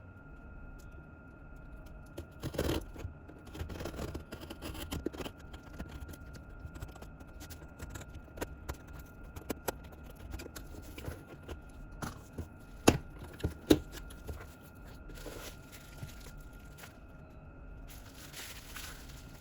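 K-pop album packaging being unwrapped and handled: plastic wrap tearing and crinkling, with scattered clicks and two sharp, louder clicks a little past the middle.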